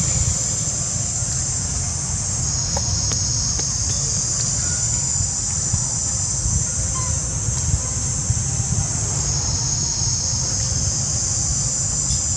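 Steady high-pitched chorus of insects, dropping slightly in pitch about two seconds in and rising back about three-quarters of the way through, over a steady low rumble.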